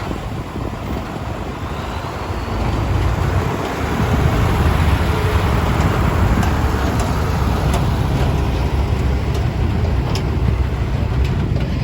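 Ten-wheel diesel dump truck running, a heavy low rumble that grows louder about four seconds in, with a few faint light clicks later on.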